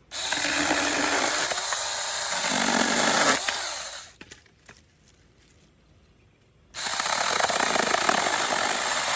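Small handheld chainsaw running and cutting through sticks in two runs, the first about four seconds long and the second about two and a half, with a short quiet pause between.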